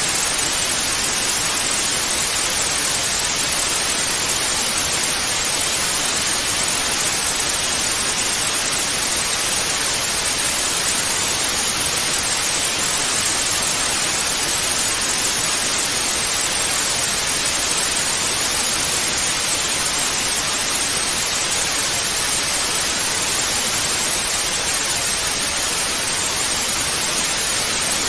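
Analog TV static ("snow" noise): a steady, even hiss, brighter in the high frequencies, with no change.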